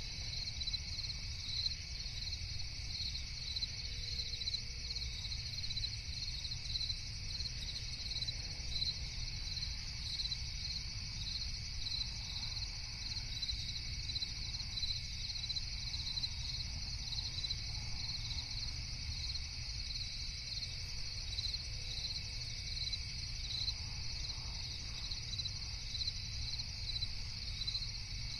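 A chorus of crickets chirping in a continuous, rapid, even trill, over a low steady rumble.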